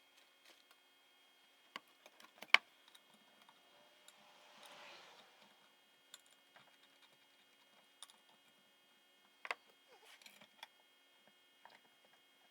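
Scattered light clicks and taps from small parts being handled by hand during an engine teardown, the sharpest about two and a half seconds in and another cluster near the end, with a soft brushing noise around the middle.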